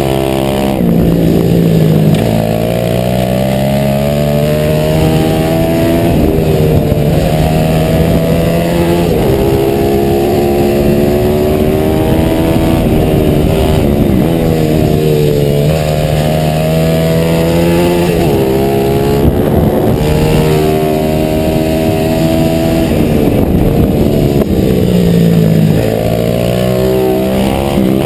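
Onboard sound of a stock 140cc pit bike's single-cylinder four-stroke engine under racing load, its pitch climbing hard and then falling back again and again as the rider accelerates and backs off for corners.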